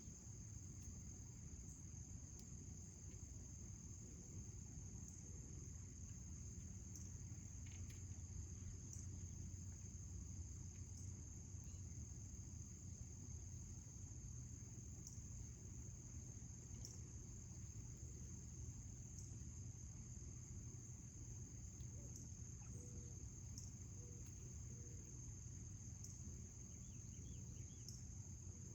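Faint, steady, high-pitched insect trill that runs on without a break, over a low background rumble.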